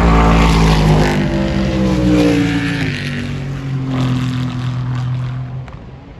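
Race car passing close by at speed, its engine note loudest in the first second and dropping in pitch as it goes past, then fading away about five and a half seconds in.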